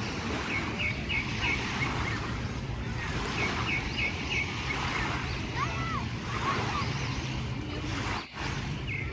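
Sea surf washing steadily on the beach, with wind on the microphone. Two quick runs of short high chirps sound in the first half.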